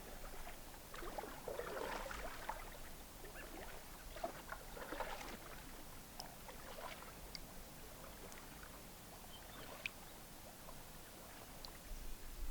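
Canoe paddle strokes pulling through calm water: soft swishing swirls about every two to three seconds, fading after the middle, with a few short faint high blips.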